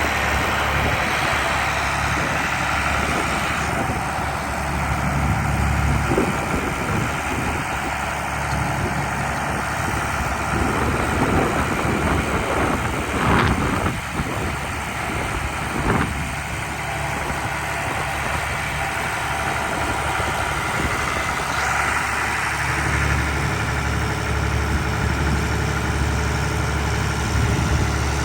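John Deere 3130 tractor engine running at idle, with a few brief knocks in the middle.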